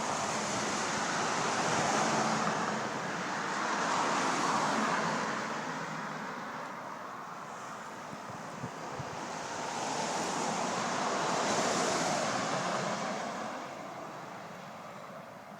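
Vehicle noise at a distance mixed with wind on the microphone, swelling and fading a few times and dying away near the end.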